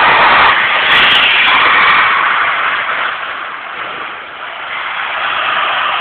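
Compressed air hissing loudly and steadily through a 1/4-inch airline straight into a Firestone air spring, inflating a pickup's airbag suspension up off its bump stop. It eases off slightly a few seconds in.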